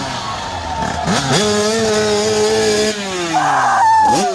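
Motocross bike engine revving hard. The pitch drops off, climbs sharply about a second in and holds at high revs, then falls away and climbs again near the end. A brief harsh noisy burst lies over it just after three seconds.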